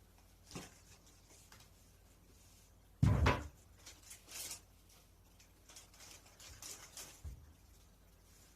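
Handling noises: scattered light clicks and rustles, with one louder thump about three seconds in.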